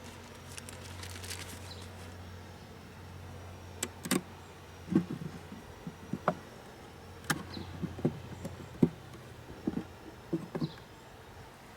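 Honey bees buzzing steadily, with a run of sharp knocks and clicks through the second half.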